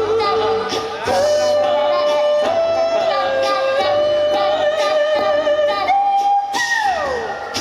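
A small choir singing in harmony, holding long notes that step up and down in pitch. Near the end, one note slides steeply downward.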